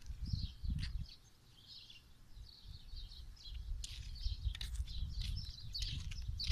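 Small birds chirping over and over in quick, short calls, with a low, uneven rumble underneath.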